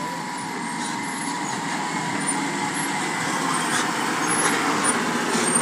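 Eicher Pro dumper truck's diesel engine running under load, growing steadily louder.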